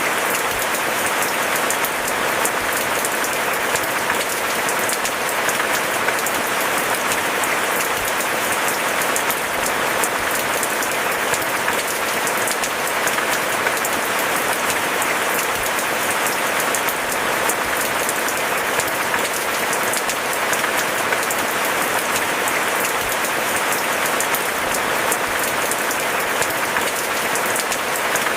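Steady heavy rain: an even hiss of falling water packed with the fine ticks of countless drops landing, unchanging throughout, with no thunder.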